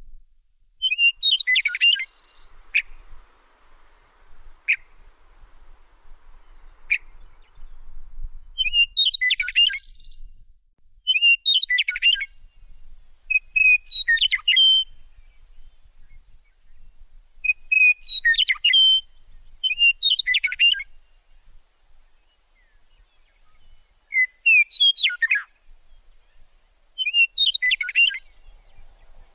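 A bird singing: short phrases of quick chirps and whistles, each about a second long, repeated every few seconds.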